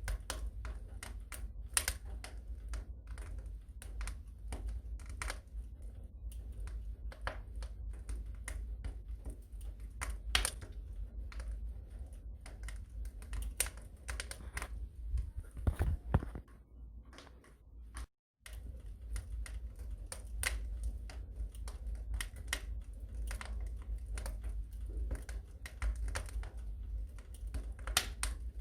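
Wood fire crackling in a fireplace: irregular sharp pops and snaps over a steady low rumble. About two thirds of the way through it goes quieter and drops out to silence for a moment, then resumes.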